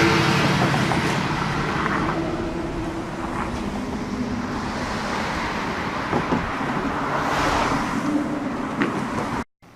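Road traffic going by on a bridge: a steady rush of cars with a low engine hum, swelling as vehicles pass about a second before the start and again around seven seconds in. It cuts off suddenly near the end.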